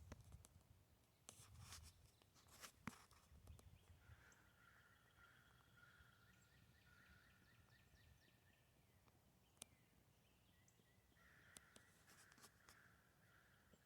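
Near silence with a few faint rustles and clicks in the first few seconds, then faint distant bird calls, heard twice.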